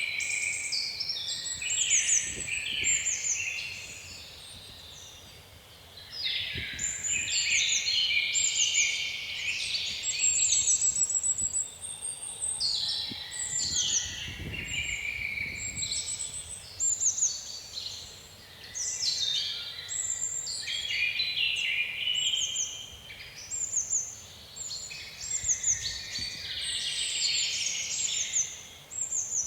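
Several birds singing at once: a dense chorus of overlapping chirps, trills and short falling notes with a few brief lulls. Faint low wind rumble comes and goes, strongest about halfway through.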